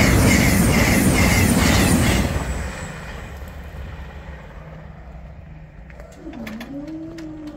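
High-speed passenger train passing at speed, a loud rush with a regular beat of wheels that fades away after about 2.5 seconds. About six seconds in, the crossing's yodalarm starts up, swooping down and back up before holding one strange low tone: the alarm is faulty. A few sharp clicks come with it.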